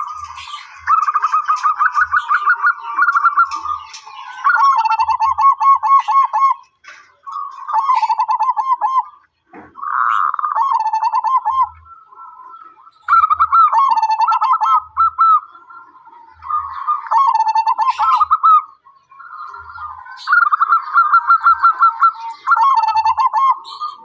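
Zebra dove (perkutut) cooing in a series of rippling phrases, each a quick run of staccato coos, repeated every couple of seconds with short pauses between them.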